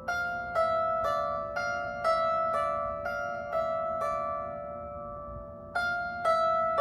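Cega 16-string lyre harp being plucked in a slow melody, single notes about two a second that ring on, with a pause of about a second and a half after the first few seconds before the notes resume.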